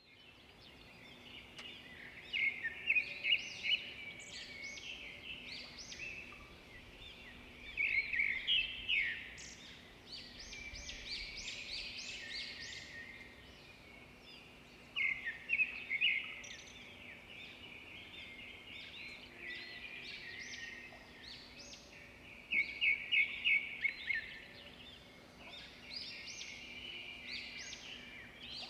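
Zebra finches chirping and singing: a steady chatter of short high calls, broken four times by louder bursts of rapid chirps.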